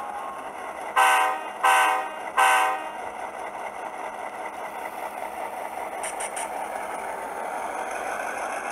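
Sound decoder in an HO scale model diesel locomotive blowing its air horn three short times through a small sugar cube speaker, then playing a steady recorded EMD 567 diesel engine sound.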